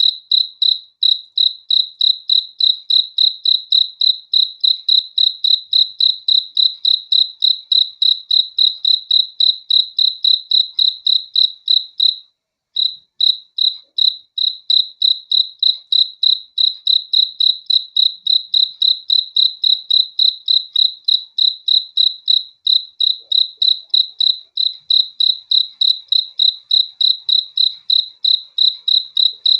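A cricket chirping loudly in an even rhythm of about three chirps a second, with one short break about twelve seconds in.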